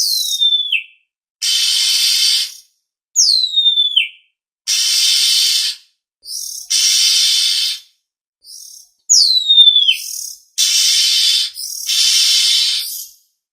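Oriental magpie-robin (kacer) lure call: harsh rasping calls about a second long, repeated, broken by three clear whistles that each slide steeply downward.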